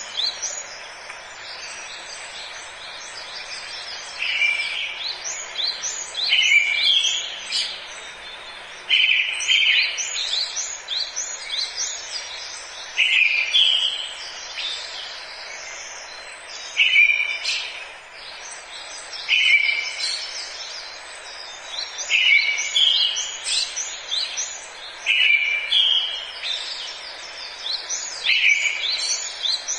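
Forest birdsong: a bird repeats a loud song phrase every two to four seconds, each followed by a quick run of higher chirps, over a steady background hiss.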